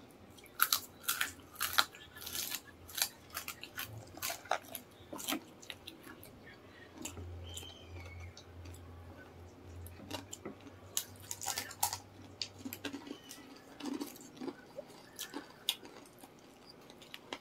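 Crunching and chewing of crispy fried chicken skin: irregular clusters of sharp, crisp cracks with quieter stretches between them.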